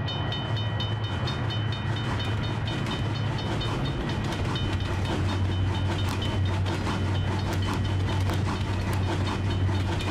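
Train sound effect: a level-crossing warning bell dinging about three times a second over a low rumble. A train runs past with its wheels clicking over the rail joints, the clicks coming through more plainly from about halfway on.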